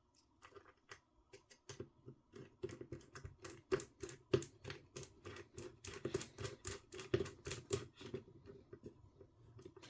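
Rapid, irregular light clicking of a small hand tool and metal parts as a screw is driven in to fit a bushing on an RC car's aluminum steering bell crank.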